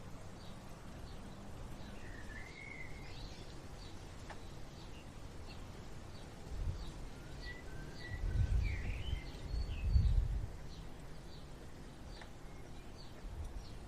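Birds calling outdoors: a few whistled phrases that glide in pitch, over a short high chirp repeating about twice a second. About halfway through, a low rumble rises for a few seconds and is the loudest sound.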